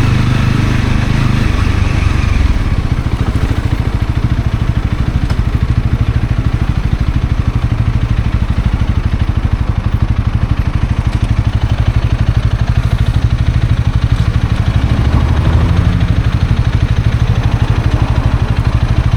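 Honda CL250 motorcycle engine running. About two seconds in, the rushing noise fades and the engine settles into an even, low, pulsing beat like an idle.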